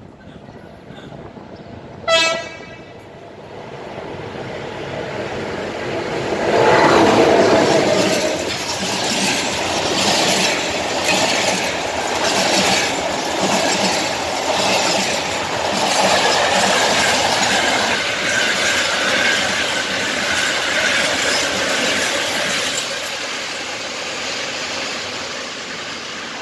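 A short horn toot about two seconds in, then a freight train hauled by a 5100 kW Electroputere electric locomotive approaches and passes close, loudest as the locomotive goes by. Loaded container wagons follow with a steady rumble and a regular clickety-clack of wheels over the rail joints, easing off near the end as the train draws away.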